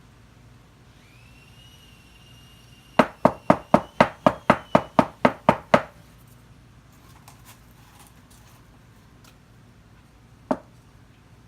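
A quick run of about a dozen sharp knocks, roughly four a second, then a single knock near the end. A faint high, slightly wavering tone runs under the first knocks.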